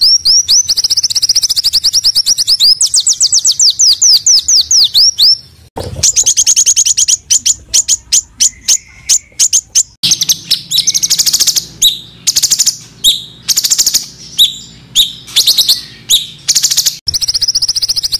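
Recorded small songbirds singing rapid trills of high, repeated sweeping notes, about ten a second. The song comes in separate segments that change abruptly, with a choppier, louder run in the second half.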